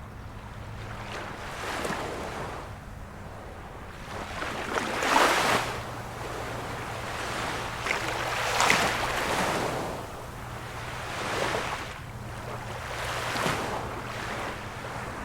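Small waves of a calm sea washing in against the shore one after another, each swelling and fading over a second or two, about every three seconds. The strongest two come about five and nine seconds in.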